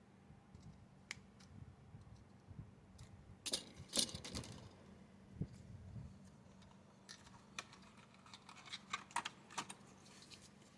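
Scattered small clicks and taps of hand tools and plastic model parts being handled, with a burst of sharper clicks about a third of the way in and a run of light clicks near the end.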